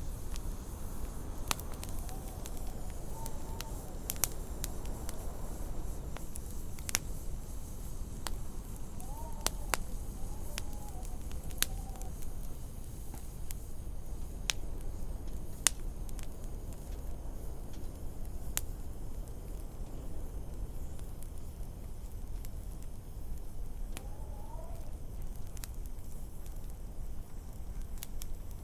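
Wood fire crackling, with irregular sharp pops, over a steady low rumble of storm wind. Now and then the wind rises into a brief wavering, whistling howl.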